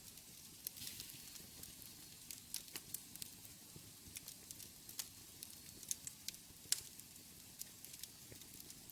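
Wood fire burning in a fireplace: a soft steady hiss with irregular sharp crackles and pops, the loudest about two-thirds of the way through.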